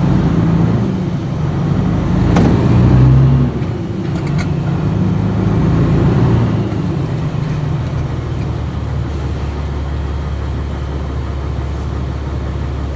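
Semi truck's diesel engine running, heard from inside the cab. It grows louder for a stretch around two to three seconds in and again around six seconds, then settles to a steady drone.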